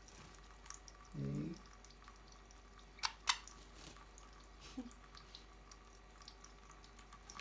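Water dripping and lightly splashing as a budgie bathes, with scattered small drips and two sharp splashes close together about three seconds in.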